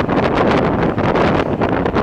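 A 1980s-era passenger train running along the track, heard from on board: a steady rumble and rattle of wheels on rail under strong wind buffeting the microphone, with frequent small crackles.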